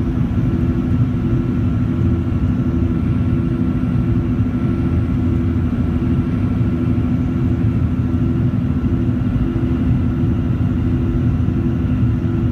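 Boeing 737-700's CFM56-7B jet engines running at high power during takeoff: a loud, steady rumble with a steady hum and a thin high tone over it.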